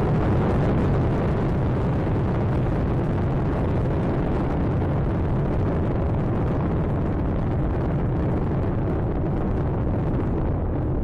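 Space Shuttle Atlantis's rocket engines during ascent, heard as a steady, deep rumble that doesn't let up.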